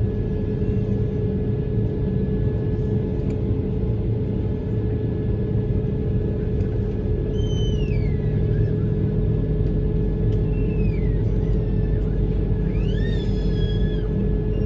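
Steady low rumble and hum inside an Airbus A220-300 passenger cabin. A few short gliding tones rise and fall over it, about halfway through and twice near the end.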